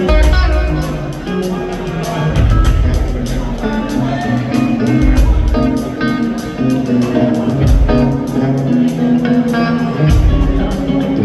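Hard rock music: electric guitar riffing over bass and a steady drum beat.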